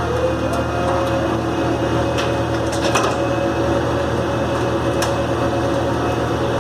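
A heavy truck engine running steadily with a whine that rises slightly at the start, with a few sharp clicks or knocks over it.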